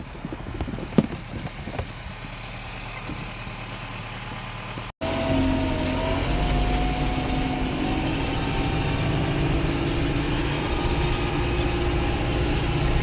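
A few faint knocks, then, about five seconds in, a farm tractor's engine running steadily, with a faint whine over it.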